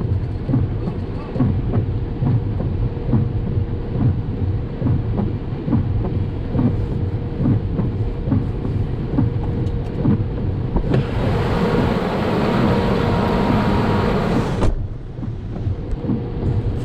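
Vehicle driving, heard from inside the cabin: a steady low road-and-engine rumble with frequent knocks and jolts. About eleven seconds in, a loud rushing noise comes in suddenly, lasts nearly four seconds and cuts off just as suddenly.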